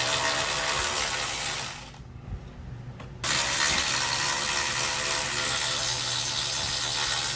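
A ratchet spinning out the radiator's bottom mounting bolts on an ATV. It runs in two spells, with a pause of about a second and a half after the first.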